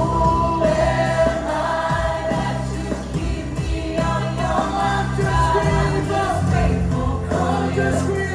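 Live gospel praise-and-worship music: a band with steady bass notes backing a group of singers holding long sung notes.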